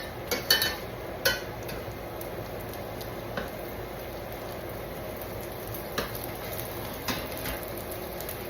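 Bacon sizzling in a frying pan while it is stirred, a utensil clinking against the pan several times in the first second and now and then after.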